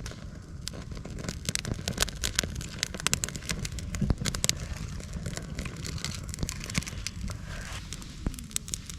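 Newly lit campfire of fatwood and Scots pine twigs crackling, with many irregular sharp pops and snaps as the kindling catches.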